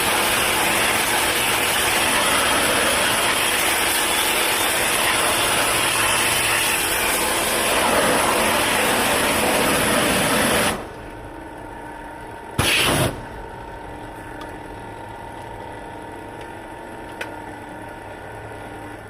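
Pressure washer jet spraying steadily, stopping about eleven seconds in, then a short second burst about two seconds later, leaving a quieter steady hum.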